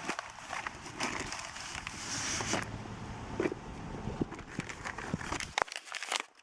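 Rustling and crinkling handling noise from a coated-fabric dry bag being moved about, with scattered clicks over a low rumble that stops about five and a half seconds in.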